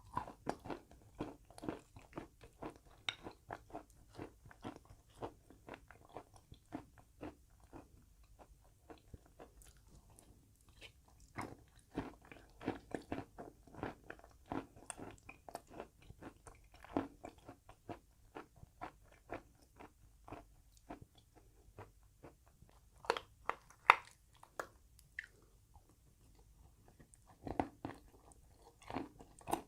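Chewing and biting of chalk coated in chalk paste, a dense run of short crisp crunches, with a few louder bites about three-quarters of the way through and again near the end.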